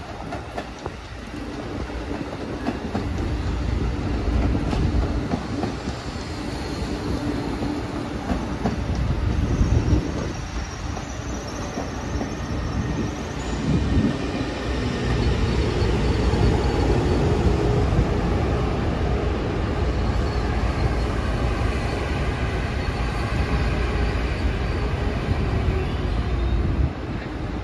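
First-generation Amtrak Acela Express trainset rolling slowly past, its coaches and power car giving a steady rumble of wheels on rail. A faint high whine comes in from about ten to thirteen seconds in.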